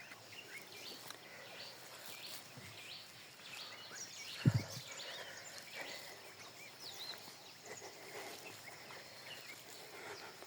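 Birds chirping and calling with many short, rapid calls over a faint outdoor hush, with one sharp low thump about four and a half seconds in.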